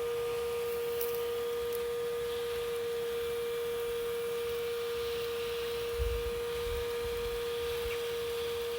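Bee vacuum swarm catcher, a modified shop vac, running with a steady mid-pitched whine while sucking up a swarm of honeybees. A few low rumbles come in about six to seven seconds in.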